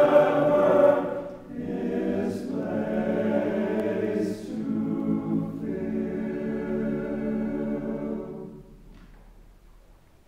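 Several voices singing a hymn together, holding long notes with short breaths between phrases; the last note dies away about eight and a half seconds in.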